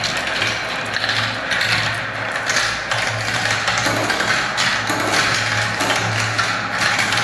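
Many marbles rolling and clattering steadily down marble-run spiral ramps, a dense rattle of small clicks, with a low hum underneath that rises and falls.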